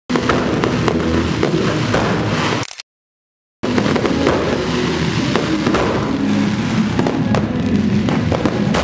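Fireworks display going off: a dense, continuous run of pops and crackles, broken by under a second of dead silence a little before the middle, then resuming.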